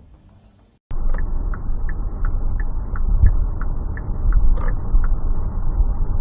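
Vehicle driving, heard as a steady low road rumble with a light tick about three times a second. It starts abruptly just under a second in, after a brief silence.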